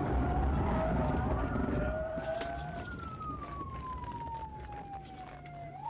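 Police car siren wailing in slow sweeps: its pitch rises, falls slowly and starts to climb again near the end. Under it, low car engine and road noise fades away.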